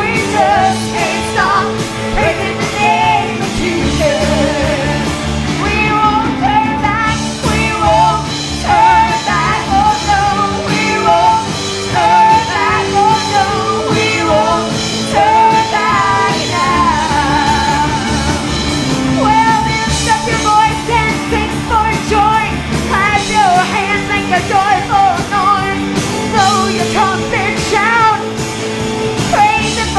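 Live church worship music: voices singing over a full band with drums and a steady beat.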